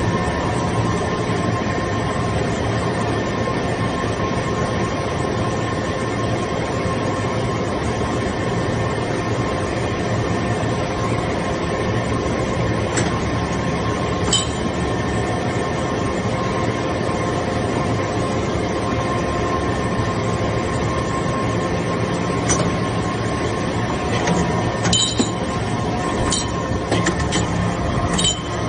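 Automatic metal chips baler running: a steady machine hum and whine made of several held tones over a rumble, with a few sharp metallic clinks in the second half.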